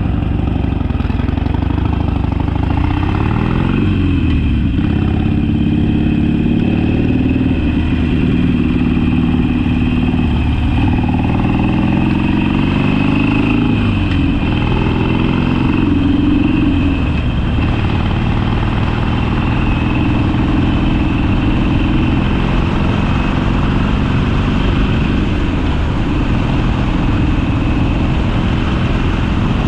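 Harley-Davidson Sportster V-twin engine under way: its pitch rises and drops back several times in the first half as it is pulled through the gears, then it holds a steady pitch at cruising speed.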